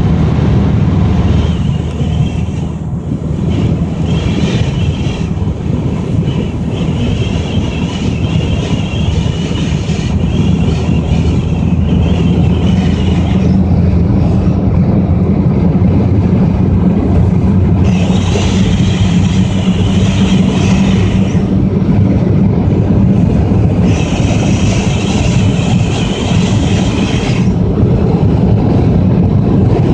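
Wind noise on a moving Renault Clio 4. Over a steady low road-and-engine rumble, a higher whistling hiss rises and fades away several times, each time lasting a few seconds.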